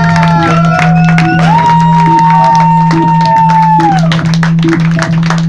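Live band music: a melody of long held notes that slide off at their ends, over a steady low drone, a regular pulse about twice a second and busy percussion.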